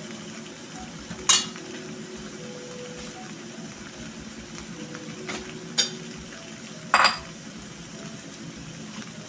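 Chicken asado simmering and sizzling in a covered pan, with three sharp metal clanks of lid and cookware against the pot, about a second in, near the middle and after about seven seconds.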